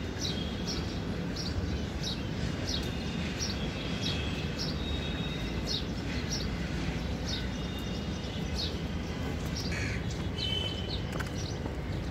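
A bird chirping repeatedly, about two short high chirps a second, over a steady low background rumble. A few faint clicks come near the end.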